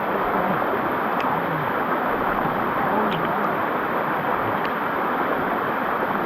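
Waterfall water rushing over the rocks close by, a loud, steady, even roar of falling water.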